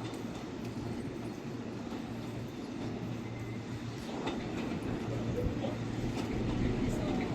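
Electric train rolling slowly on depot track, with a steady low motor hum and a few wheel clicks over rail joints from about halfway through, growing louder toward the end.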